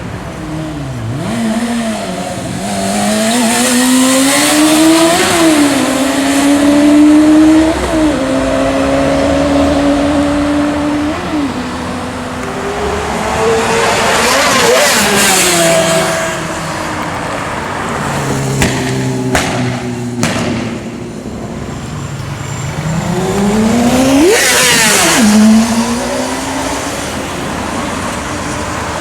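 Sport motorcycle engines revving hard through the gears, the pitch climbing and dropping at each shift, then two bikes passing close by at high revs, their engine note rising to a peak and falling away as each goes past, about halfway and near the end.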